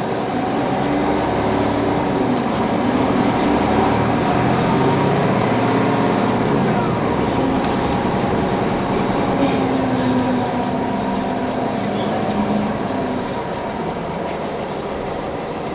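NovaBus LFS transit bus engine pulling away and accelerating, its pitch climbing and then dropping several times as the transmission shifts up. A faint high whine rises and slowly falls away over the same stretch.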